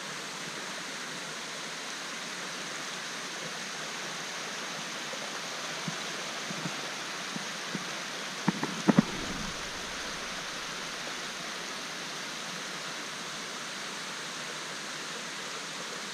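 Creek water rushing steadily over a small set of falls, with a couple of brief knocks about halfway through.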